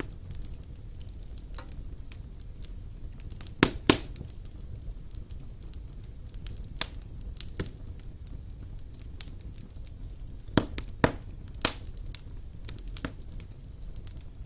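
Wood fire burning in a fireplace: a steady low rumble of flames with scattered crackles and sharp pops from the burning logs, the loudest being two pops about four seconds in and three more around eleven seconds.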